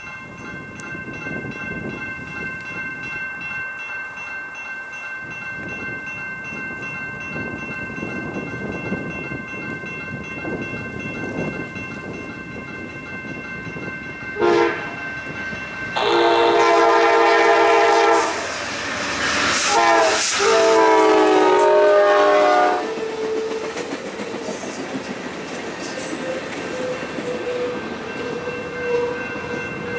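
Diesel locomotive horn sounding one short blast and then two long blasts over the rumble of a passing train.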